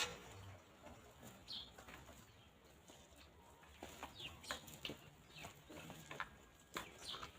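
Free-range chickens foraging: faint clucking with scattered short pecking clicks and a few brief high chirps.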